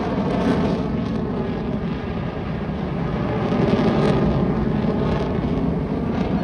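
Jet engine rumble of Blue Angels F/A-18 Super Hornets flying the display, a steady loud roar that swells slightly past the middle.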